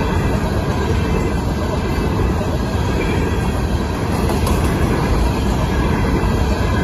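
Union Pacific freight train of covered hopper cars rolling past close by: a loud, steady noise of wheels on rail and rattling cars.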